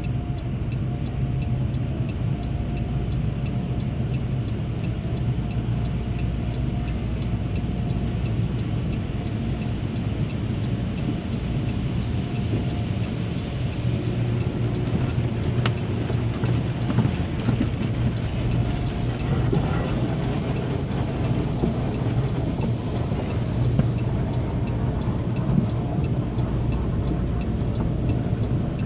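Steady rumble of a tunnel car wash heard from inside a minivan's cabin, with the four-way flasher relay ticking steadily.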